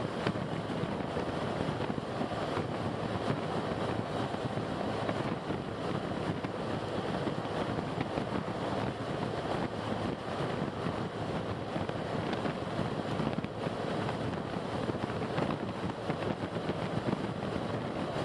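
Steady road and wind noise of a car driving at an even speed, with no clear changes.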